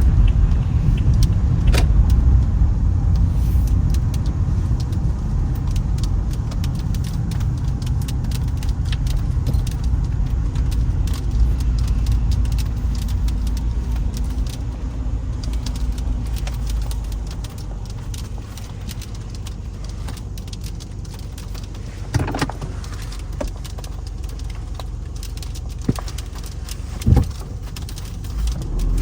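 Inside a Toyota Camry driving on a snowy, icy road: a steady low rumble of tyres and engine with many light clicks and jingling rattles. It grows quieter from about halfway, and there are a couple of sharper knocks near the end.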